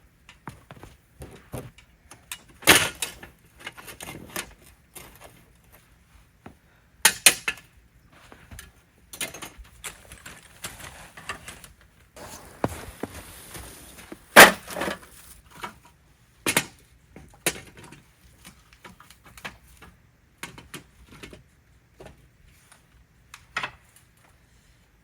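Firewood burning, crackling with irregular sharp pops, the loudest about 3, 7 and 14 seconds in, with a faint hiss between them.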